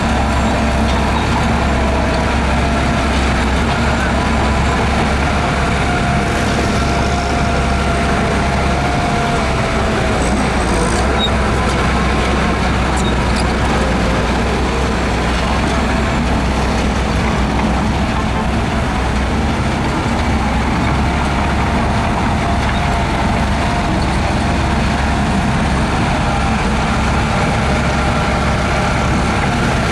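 Heavy diesel engine of earthmoving machinery running loud and steady.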